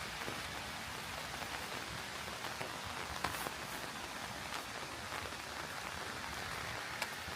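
Steady rain falling, with sharp single drops ticking close by, the loudest about three seconds in and again near the end.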